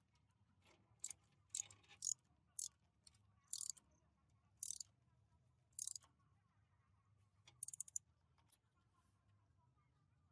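Workshop hand-work noises: about eight short, sharp scraping sounds spread over several seconds, with a quick rattle of clicks near the end, and quiet between them.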